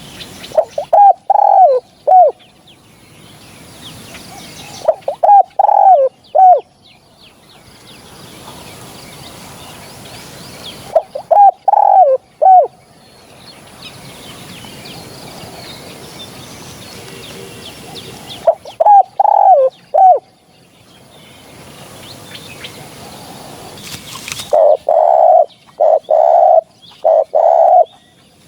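Spotted dove cooing: four separate phrases of three or four bending coos, with pauses of several seconds between them. Near the end comes a quicker run of five or six steadier coos.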